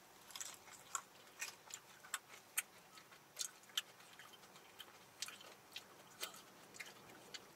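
Faint, irregular clicks of people chewing food and smacking their lips, picked up close to the microphone.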